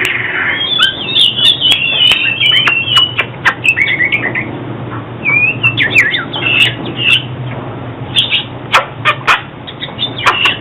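Oriental magpie-robin singing: a fast, varied run of short whistled notes and slurred glides, broken by brief pauses about halfway and again later, with sharp clicks scattered through.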